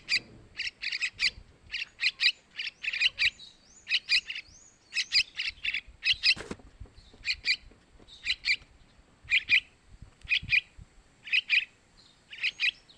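Young yellow-vented bulbul (trucukan) chicks calling: short, sharp chirps in quick clusters of two or three, repeated about once a second.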